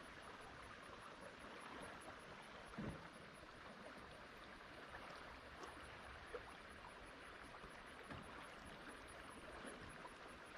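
Faint, steady rush of river water flowing over a shallow rocky stretch, with a soft thump about three seconds in and a few lighter knocks.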